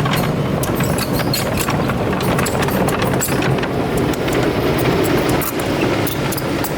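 Excavator's diesel engine running steadily, with frequent metallic clanks and knocks over it.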